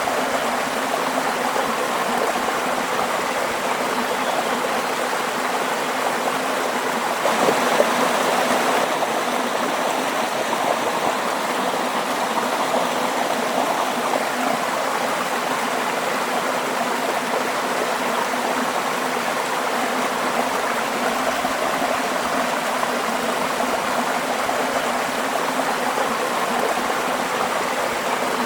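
Waterfall, its water rushing in a steady, unbroken roar that swells briefly about seven seconds in.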